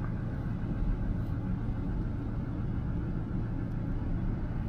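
An engine running steadily: a constant low rumble with no change in speed.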